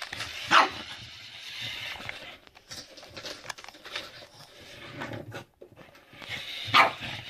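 Boston terrier barking twice while at play, once about half a second in and again near the end, with scattered light clicks and scuffling in between.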